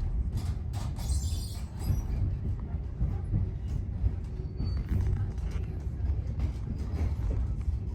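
A Great Western HST passenger coach running on the line, heard from inside: a steady low rumble with irregular clicks and knocks from the wheels and bogies on the track.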